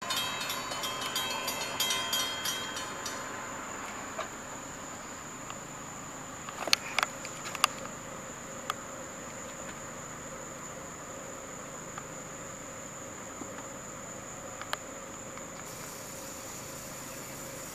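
Steady insect chirring, like crickets, throughout. A louder metallic ringing and rattling fades out over the first three seconds. A few sharp clicks come about seven seconds in and once more near the end.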